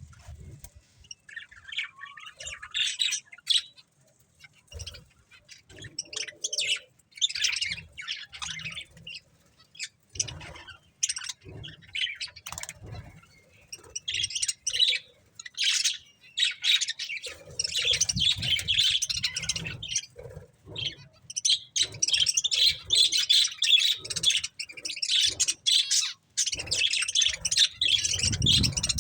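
Budgerigars chirping and chattering in quick high calls, scattered at first and almost continuous in the second half. Low knocks and thumps are heard underneath.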